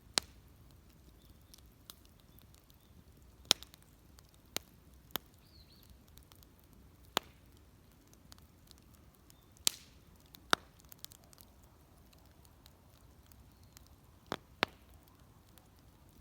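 Wood fire crackling: sharp pops at irregular intervals, about a dozen loud ones with fainter ticks between, over a quiet steady background.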